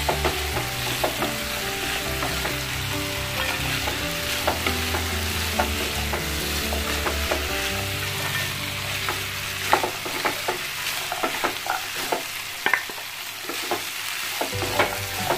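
Fried chicken pieces sizzling in a pan of masala sauce as a wooden spatula stirs them, with frequent knocks and scrapes of the spatula against the pan.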